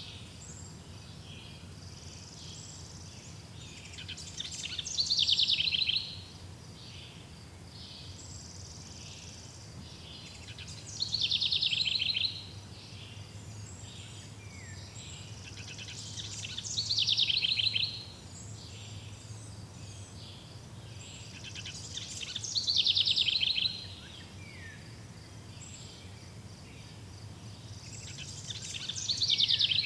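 Forest ambience: a songbird repeats the same short song, about every six seconds, each phrase ending in a falling trill, over faint chirps from other birds and a low steady hum.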